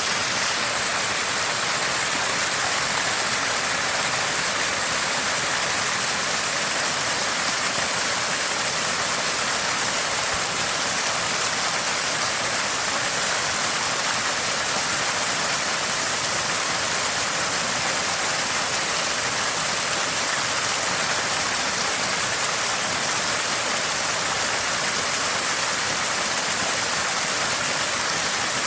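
A small spring spouting water, a steady gurgling splash with no breaks or changes, strongest in the higher tones.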